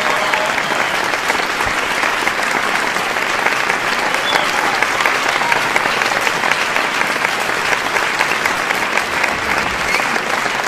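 Large audience clapping steadily, a dense, even applause that doesn't fade or break.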